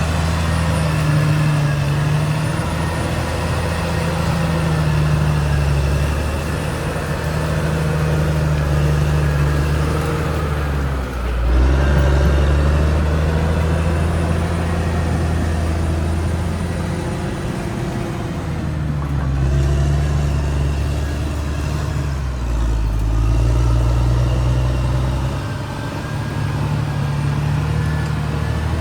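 Caterpillar D6R XL bulldozer's diesel engine running under changing load, its pitch stepping up and down every few seconds, with a brief surge about a third of the way through.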